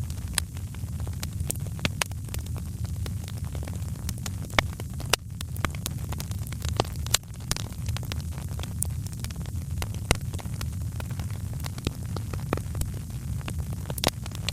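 Fireplace fire crackling: many irregular sharp pops and snaps over a steady low rumble.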